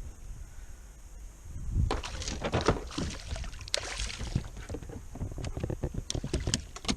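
Water splashing and irregular knocks and rattles against a fishing kayak, starting about two seconds in, as a hooked bass is brought in alongside.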